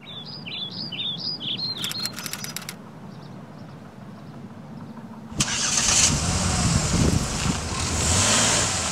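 A bird chirps in quick repeated rising-and-falling notes for about two seconds, followed by a short run of clicks. About five seconds in, a loud rushing noise with a low rumble starts suddenly.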